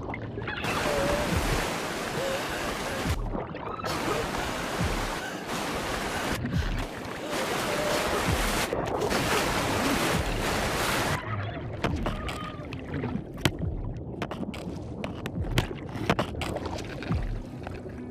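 Whitewater rapids rushing and splashing against a raft, with a soft steady beat of background music underneath. The rush breaks off briefly a few times. After about eleven seconds it drops to quieter water with scattered sharp splashes.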